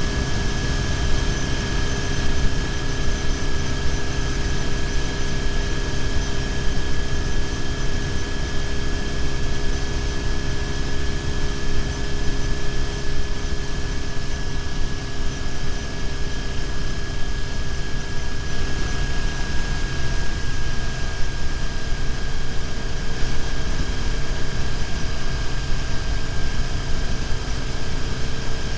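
BMW R1150GS boxer-twin engine running steadily at cruising speed, mixed with wind and road noise from the moving motorcycle, with a faint steady high whine over it.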